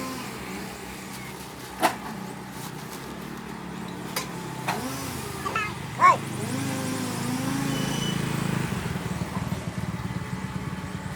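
A small engine running steadily, growing louder about halfway through, with a few sharp knocks and short high chirps over it.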